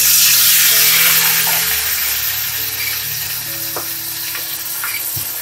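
Chicken pieces deep-frying in hot coconut oil in a cast-iron pan, a loud, steady sizzle that eases slightly as it goes, with a couple of sharp pops in the second half.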